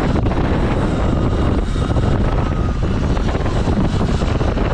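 Steady, loud wind rush buffeting the microphone of a rider on a moving electric dirt bike. A faint high whine comes through about two seconds in.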